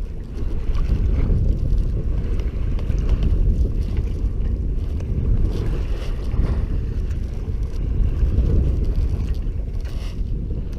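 Wind buffeting the microphone aboard a small sailboat under sail: a steady, rumbling low noise with no engine.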